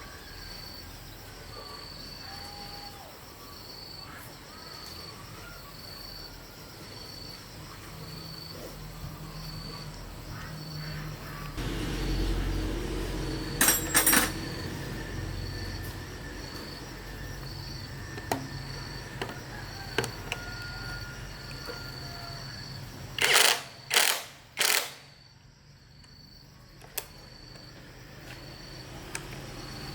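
A cricket chirping in an even pulse about once a second. Two short, loud, noisy bursts come about halfway through, and three more come near the end.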